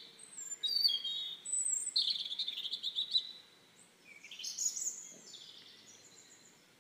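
Small birds singing: a series of high whistled phrases with a quick trill about two seconds in and another song phrase just after four seconds, fading near the end.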